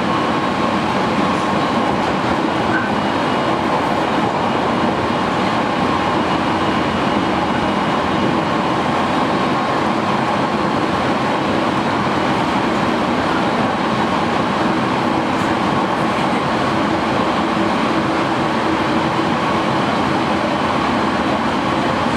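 Aoimori Railway 701-series electric train running at speed, heard from inside the passenger car: a steady rumble of wheels and running gear, with a few faint held tones in it.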